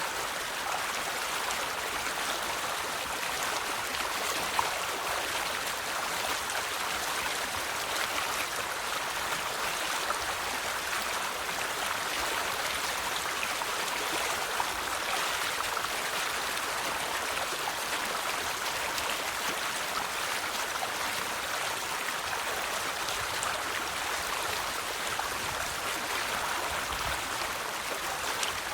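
River water flowing steadily over rocks, an even rushing and splashing with a few small drip-like splashes.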